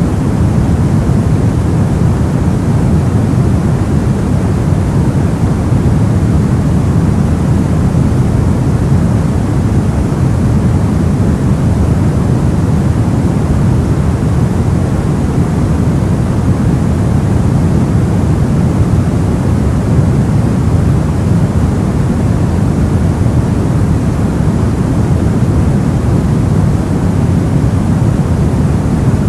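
Soft white noise for sleep, a steady deep hiss weighted toward the low end and unchanging throughout.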